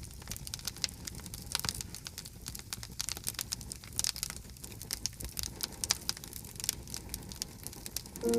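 Campfire crackling, with many irregular sharp snaps and pops over a low, steady rumble of burning wood.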